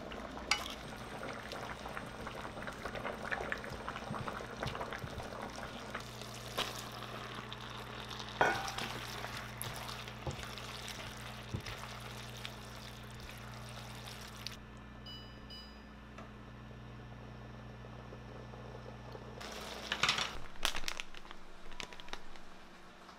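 Vegetables and flat glass noodles in a spicy sauce sizzling and bubbling in a frying pan over high heat as they are stirred and the sauce reduces. About fifteen seconds in the sizzle drops away, and near the end there is a short burst of handling noise.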